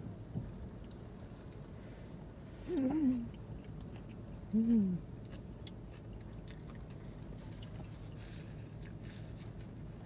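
Closed-mouth chewing of a burger over the steady low hum of a car interior, with two short hummed "mm" voice sounds, about three and about four and a half seconds in.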